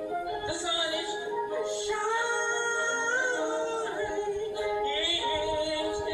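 A gospel song: a solo voice holds long notes that waver slightly and glide from one pitch to the next.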